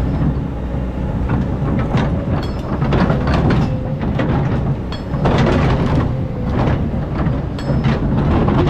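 Hydraulic excavator digging sand: the diesel engine runs steadily under load, with irregular metallic rattling and scraping from the bucket and tracks working in the sand.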